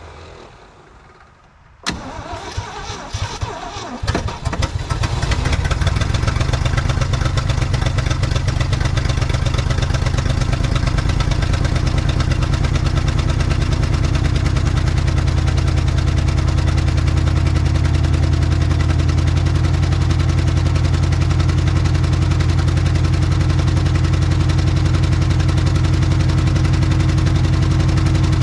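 1967 Ford F100's FE big-block V8 starting after more than 20 years of sitting: about two seconds in it cranks and fires unevenly, then catches and settles into a steady idle. It is running on fuel poured into the carburetor float bowl, and the owner judges its original fuel pump is not picking up fuel.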